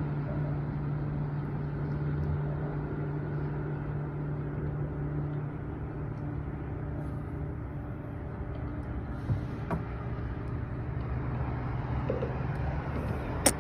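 A steady low mechanical hum with a constant low tone that drops away about halfway through, a couple of faint knocks, and a sharp click at the very end.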